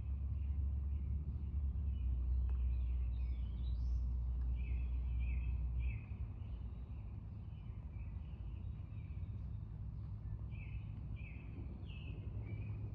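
Birds chirping in short, repeated calls over a low, steady rumble that drops off abruptly about six seconds in.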